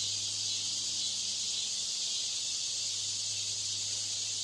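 Steady hiss with a low, even hum underneath: the deliberately added line noise of a poor-quality exam-hall broadcast system.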